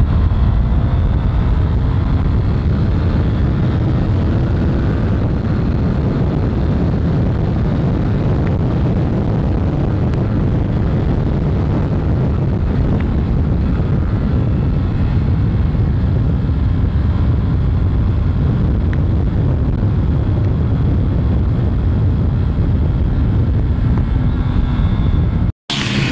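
Motorcycle riding on the road, its engine running under heavy wind rush on the camera microphone. The pitch rises and falls faintly. The sound cuts out for a moment near the end.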